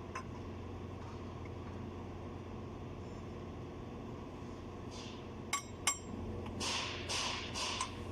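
Two sharp, ringing metal clinks of hand tools about five and a half seconds in, followed by several short rasping noises, over a steady background hum.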